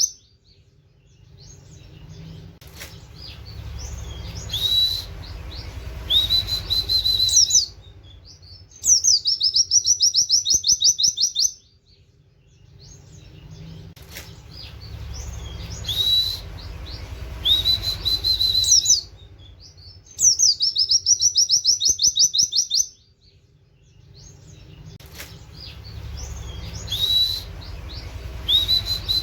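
Oriental white-eye (pleci) singing in fast bursts: a rapid high trill of canary-like notes and rising 'wit wit' whistles, the sequence coming round about every eleven seconds.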